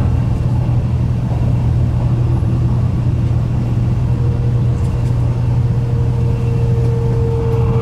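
Cabin noise of a Tokaido Shinkansen 700 series train running at speed: a loud, steady low rumble, with a steady whine coming in about halfway through.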